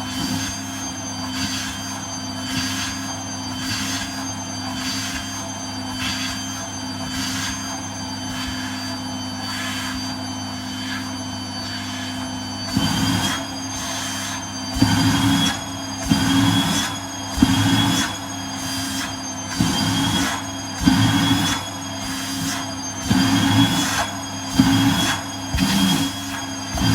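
Vacuum cleaner running with a steady whine. From about halfway, its sound surges and drops in a regular rhythm about once a second as the nozzle sucks and lets go.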